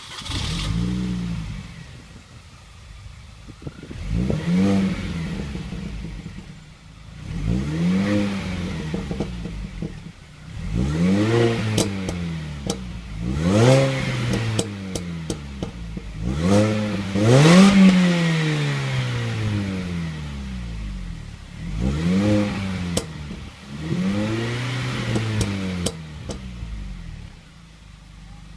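MINI Cooper S engine and exhaust being revved in about eight separate blips, each rising and falling away, with sharp pops and crackles from the exhaust as the revs drop: the car's 'pop and burble' on overrun.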